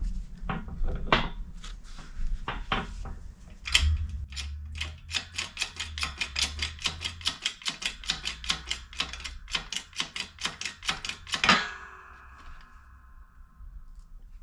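Ratchet wrench clicking as it turns the forcing screw of a ball-joint press pushing a toe link bushing out of its arm: scattered clicks at first, then a steady run of about four clicks a second. Near the end comes a sharp metallic clank that rings on for a couple of seconds.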